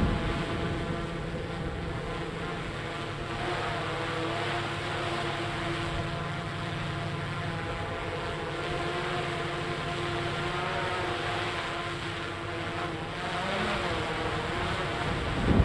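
Tugboat's diesel engines running as it pushes a barge: a steady drone with several held tones. Wind buffets the microphone at the very end.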